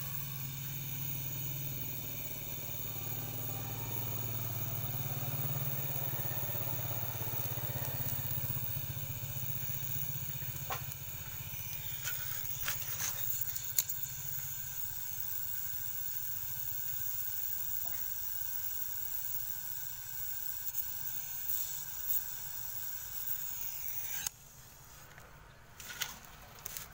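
A steady machine hum with hiss, with a few sharp clicks in the middle. The hum cuts off suddenly a couple of seconds before the end.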